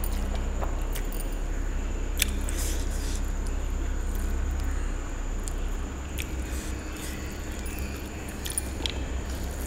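Close-up eating sounds: chewing a mouthful of rice and mutton curry, with scattered light clicks as a hand works the food on a steel plate, over a steady low hum.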